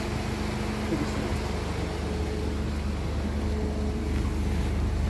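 Mk3 Ford Mondeo's engine idling: a steady, even hum with a constant low throb.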